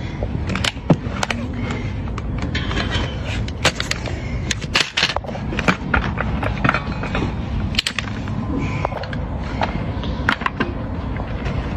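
Hand tools cutting into an overgrown donkey hoof: irregular sharp cracks and scrapes as the hoof horn is pared away, over a steady low rumble.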